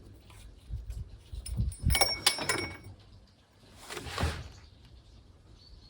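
Handling noises: a short metallic clinking and rattling with a ringing edge about two seconds in, then a brief swishing rustle about four seconds in, with soft knocks around them.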